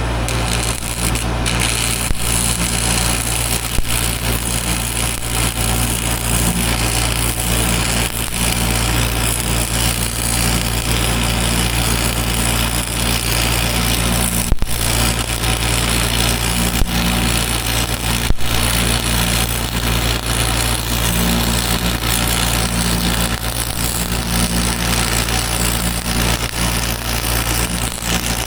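An engine running steadily at a constant speed, a low hum with an even hiss over it.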